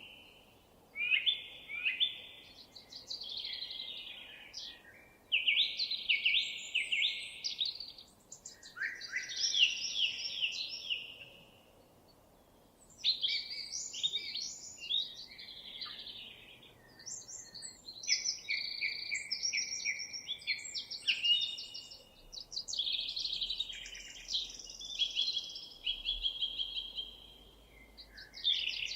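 Songbirds singing: a run of high, fast, trilled and chirped phrases that come in bouts separated by short pauses.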